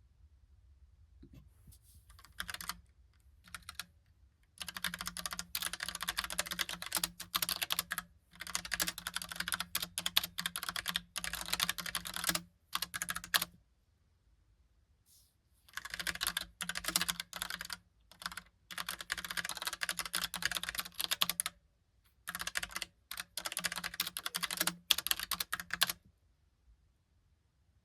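Typing on a Logitech Pop Keys mechanical keyboard with round typewriter-style keycaps: runs of rapid key clicks broken by short pauses, stopping about two seconds before the end.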